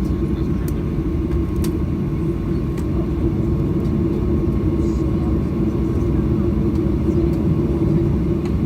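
Cabin noise inside a Boeing 737-800 on the ground after landing: a steady low rumble with a constant hum from the idling CFM56 engines and cabin air, typical of the aircraft taxiing to the gate.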